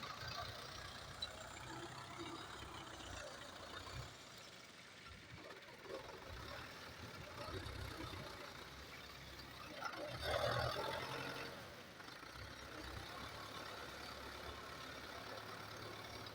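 Russian-made tractor's engine running steadily, swelling louder for a second or so about ten seconds in.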